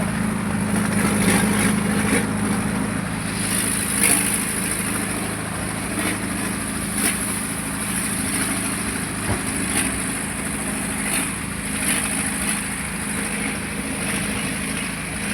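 Tractor engine running steadily, with short clicks or knocks every second or two.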